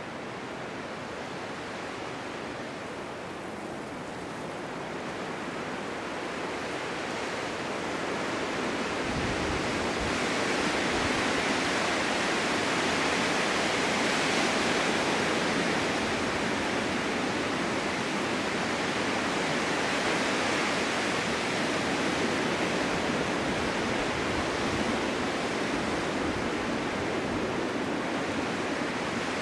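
Strong winter wind blowing steadily in gusts, a continuous rushing hiss that swells louder about a third of the way in and then eases slightly.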